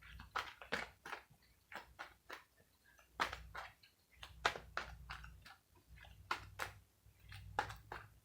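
Irregular light clicks and taps, two or three a second, as of small objects being handled.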